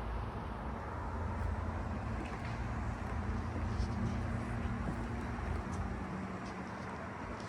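A steady low rumble of a distant engine, with a faint hum that strengthens in the middle and a few faint, short, high ticks scattered through it.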